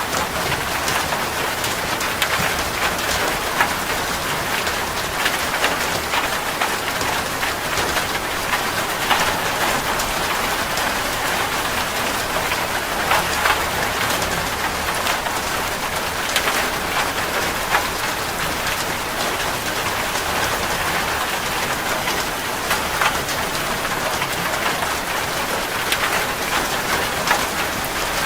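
Heavy rain falling steadily on a metal roof, a dense even hiss full of fine drop patter.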